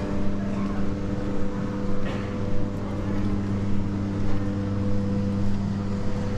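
A motor engine running steadily, a constant low hum, over general city street noise.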